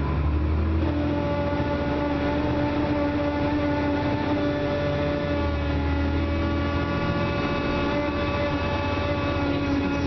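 Dennis Trident double-deck bus's engine and drivetrain running under way, a steady low rumble with a level multi-tone whine that sets in about a second in. The whine is typical of the weird noise this worn, clapped-out bus makes under acceleration.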